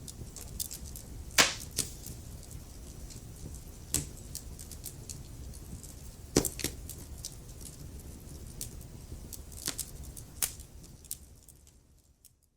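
Wood fire crackling: irregular sharp pops and snaps over a low rumble, with two loud pops, one about a second and a half in and one past the middle. The sound fades out near the end.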